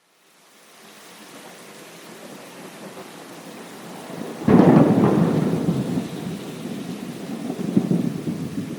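Thunderstorm: rain hiss fades in from silence, then a sudden sharp thunderclap about halfway through rolls into a long rumble, with another swell of thunder near the end.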